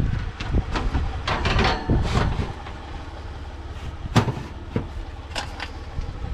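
Scattered knocks and clatter of discarded household items being handled and moved, with the loudest knock about four seconds in, over a steady low rumble.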